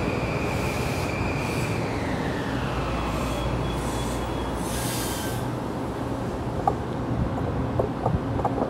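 Metro-North M8 electric multiple-unit train rolling past with a steady rumble and a high whine that slides down in pitch about two seconds in. Short hissing bursts come in the first half, and near the end a few sharp clicks and knocks come from the wheels and cars.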